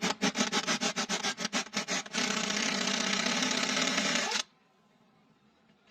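Car engine cranking on the starter motor without starting: a rapid even pulsing for about two seconds, then a steady whirr that cuts off suddenly.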